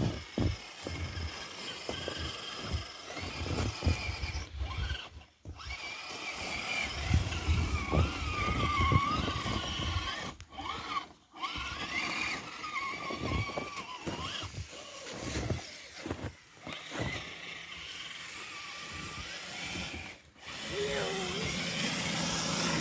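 Small electric motor and gears of an RC crawler truck whining, the pitch wavering with the throttle, with irregular clicks and knocks from the truck working over rough ground. The sound breaks off abruptly several times.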